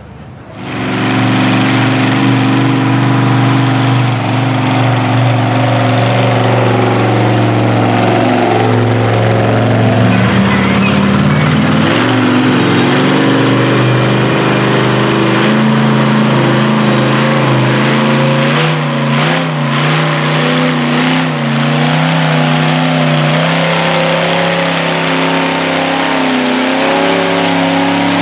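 Mud-bog truck on tractor tires running hard at high revs, its engine note rising and falling as it is driven through the mud pit. The engine comes in suddenly about half a second in.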